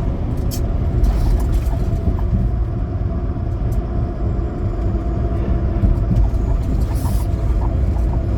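Big rig semi truck driving, with a steady low rumble of engine and road noise and a few light ticks over it.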